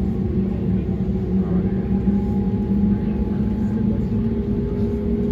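Airbus A220-100's Pratt & Whitney PW1500G geared turbofan engines running, heard from inside the cabin as a steady rumble with a few engine tones, one edging slightly higher in pitch.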